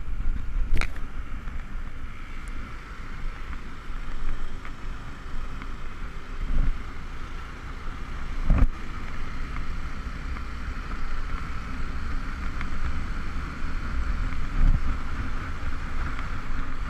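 Motorcycle running on the road with steady engine and road noise and wind buffeting the microphone, with a few short knocks, the loudest about eight and a half seconds in.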